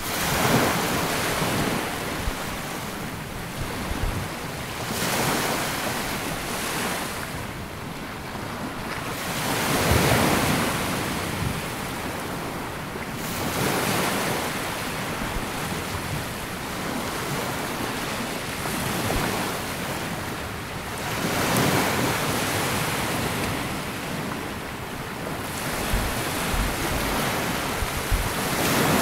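Small waves breaking and washing up a sandy beach, the surf swelling and falling back every four to five seconds, with wind buffeting the microphone in low thumps near the end.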